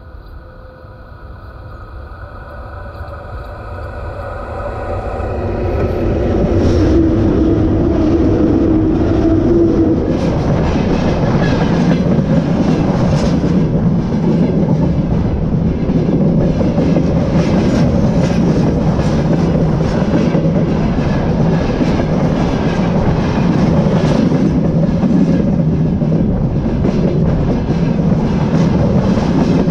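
A VL80S electric locomotive and its freight train approaching and then rolling directly over the microphone lying between the rails: the sound grows louder over the first six seconds, with a few steady tones as the locomotive nears. It then turns into loud, steady wheel-on-rail running noise, with repeated sharp clacks as the wheelsets of the tank wagons pass overhead.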